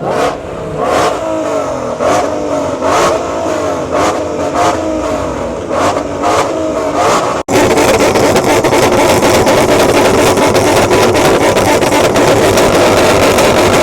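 Car engine revved again and again, its pitch rising and falling, then after a sudden break a loud, steady run held at high revs.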